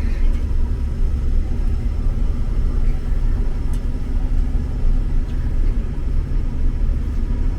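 Steady low drone of a Claas Lexion 8600 combine running under load while harvesting soybeans, heard from inside the cab.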